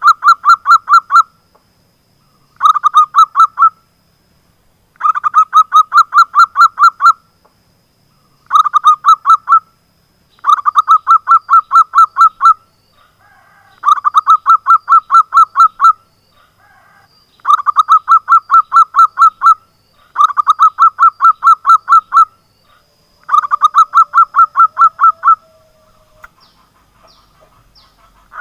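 Zebra dove (perkutut) song: about nine bursts of rapid staccato notes, roughly six a second, each burst lasting one to two seconds with short pauses between. There is a longer lull near the end. The notes are very loud.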